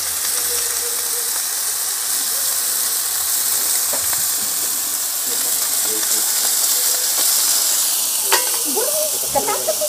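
Food frying on a hot cooking surface: a steady sizzling hiss, with a few faint clicks.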